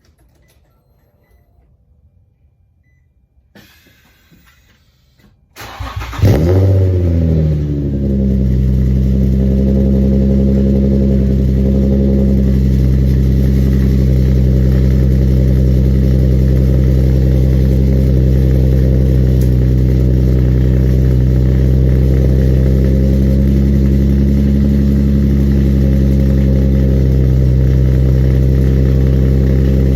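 Infiniti G35 coupe's V6 cold start through its freshly repaired single-exit exhaust. It cranks about five seconds in and catches with a short flare of revs that drops back within a couple of seconds. It then settles into a steady idle.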